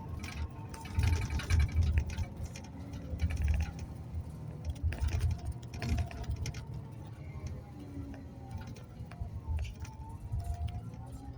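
Ride noise inside a moving public-transport vehicle: a low rumble that swells and fades, with scattered rattles and clicks.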